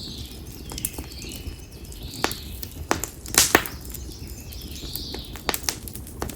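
Konara oak firewood crackling in a campfire: sharp, irregular pops, with a loud cluster about three and a half seconds in. Faint bird calls sound behind it.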